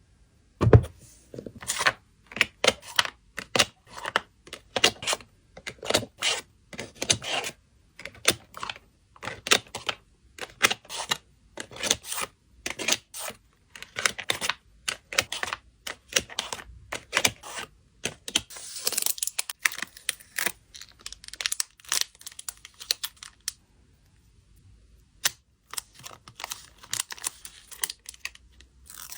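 Packing materials handled close to the microphone during photocard packing: a run of crisp, irregular crackles, clicks and rustles. A denser, tearing-like rustle starts about two-thirds of the way through, followed by a brief lull.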